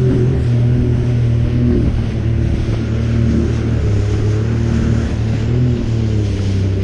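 Jet ski engine running steadily, its pitch shifting briefly about two seconds in.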